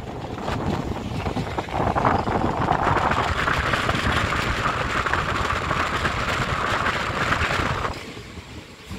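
Running noise of a moving passenger train, heard from an open coach doorway, mixed with wind rushing over the microphone. It fills out about three seconds in and falls away sharply about a second before the end.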